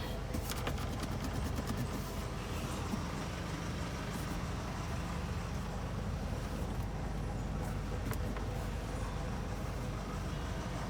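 2009 Nissan Navara idling with its freshly regassed air conditioning running: a steady low hum with the A/C blowing, and a few faint ticks in the first second.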